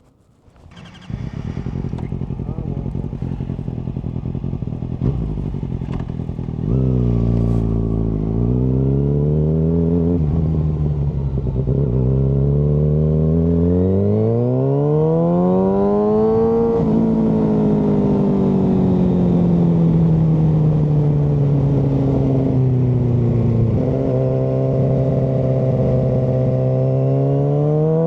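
Kawasaki ZX-6R inline-four sportbike engine. It comes on abruptly about a second in and runs steadily at low revs. From about seven seconds its revs climb and fall in long sweeps, with a sudden step in pitch a little before the end.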